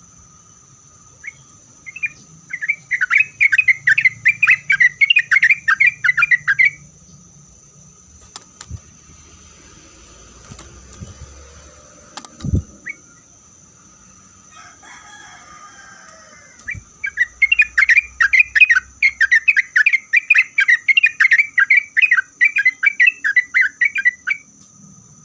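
Sooty-headed bulbul singing two long runs of quick, rapidly repeated notes, the second starting about ten seconds after the first ends.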